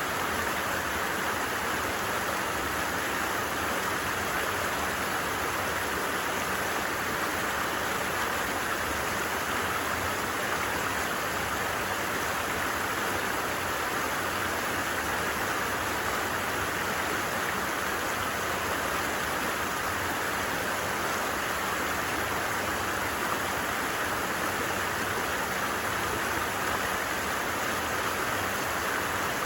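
Creek water flowing in a steady, even rush, with no breaks or changes.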